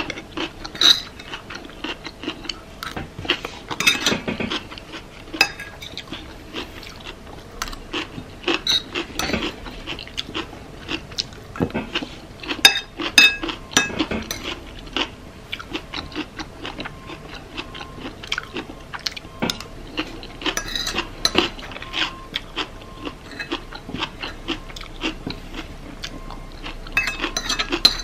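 Close-miked eating sounds: a utensil clicking and scraping against a bowl, with chewing and biting of a rice bowl of cucumber, sweet corn and tomato, in short irregular clicks. A faint steady hum runs underneath.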